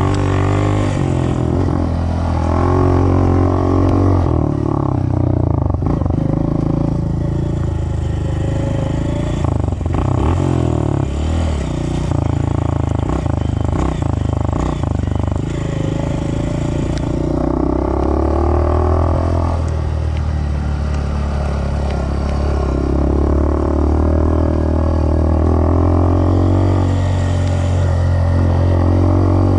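Dirt bike engine running while being ridden, its revs rising and falling with the throttle.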